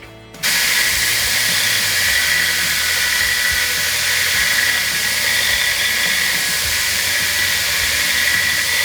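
A power tool starts abruptly about half a second in and runs steadily with a hissing, grinding noise, typical of steel being cut or ground.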